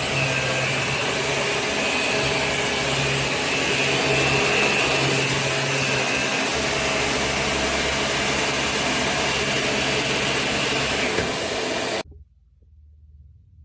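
Vacuum cleaner running steadily with an even whooshing hum and a few steady motor tones, cutting off abruptly about twelve seconds in.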